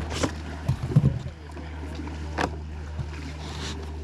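Kayak hull and paddle knocks on the river: a cluster of low thumps about a second in and a sharp knock a little later, over a steady low wind rumble on the microphone.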